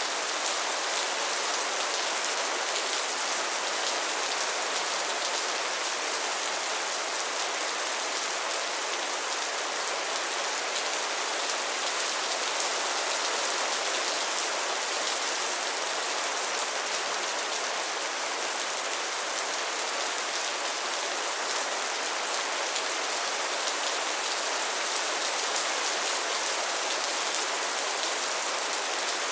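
Steady rain falling, a dense even hiss of drops with fine pattering through it.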